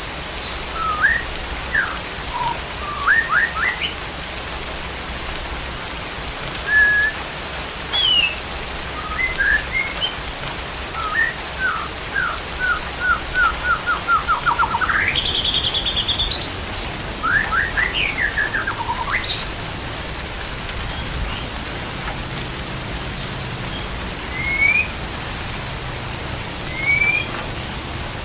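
White-rumped shama (murai batu) singing: short whistled phrases, then a quick run of rising notes about twelve seconds in that breaks into a high buzzy trill, followed by a flurry of sharp notes and a few sparse calls near the end. A steady hiss runs underneath.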